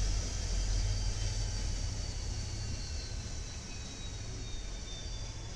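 Freight trains passing each other, giving a steady low rumble. Over it runs a faint high whine that drifts slowly in pitch.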